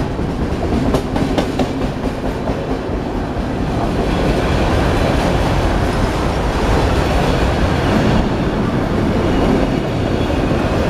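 Freight train of autorack cars rolling past close by: a steady heavy rumble of steel wheels on rail, with a few sharp clicks of wheels over the rail joints in the first second or so. It grows a little louder about four seconds in.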